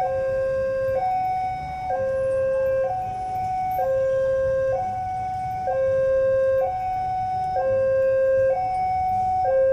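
Electronic warning alarm at a railway level crossing, sounding a steady two-tone high-low pattern with each tone held about a second, over a low background rumble.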